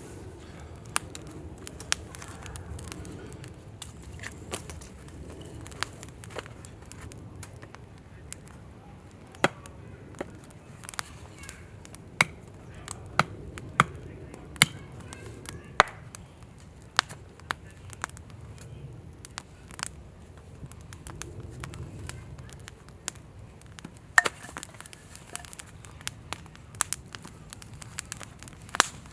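Wood campfire crackling, with irregular sharp pops, a handful of them loud, spread through.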